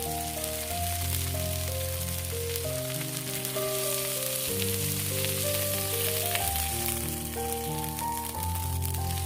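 Food sizzling and crackling as it fries in a pan, under background music with a slow melody.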